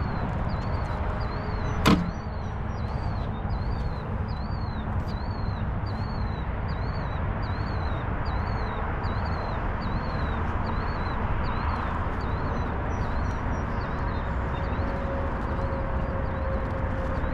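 A bird calling over and over, a short high chirp repeated about twice a second, over a steady outdoor rumble of wind and distant noise, with one sharp click about two seconds in.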